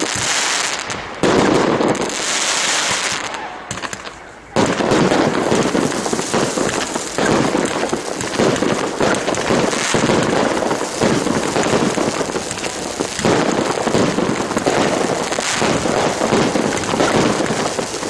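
Fireworks going off: a dense, continuous crackle of many rapid pops and bursts. There is a brief lull about four seconds in, then the firing resumes suddenly at full loudness.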